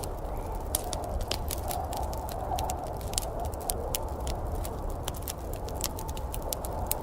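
Wood fire crackling in a fireplace: irregular sharp pops and snaps, many a second, over a steady low rumble.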